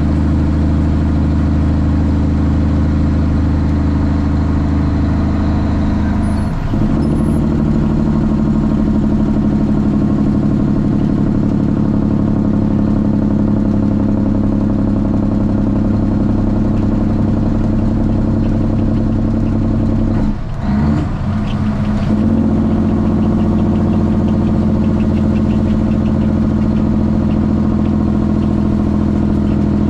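Straight-piped Cummins ISX inline-six diesel in a Kenworth T800 pulling steadily, heard from inside the cab. The drone breaks and changes pitch briefly twice, about six seconds in and again around twenty seconds in.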